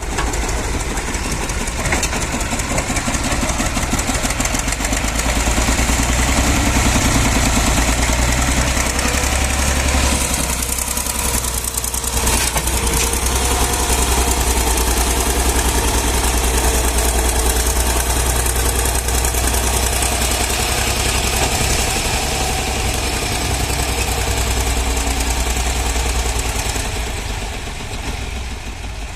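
Tractor engine running steadily with a deep low drone as it works a leveling blade, easing briefly about a third of the way in and dropping off slightly near the end.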